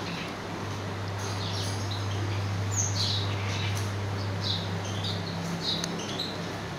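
Small birds chirping in the background: short, high, falling chirps repeated at irregular intervals. A steady low hum runs underneath and stops about five seconds in.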